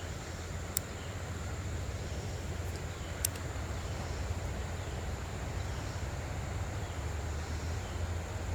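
Creekside ambience: a steady high insect drone over a low rumble of moving water or wind on the phone microphone, with two sharp clicks, the first about a second in and the second about three seconds in.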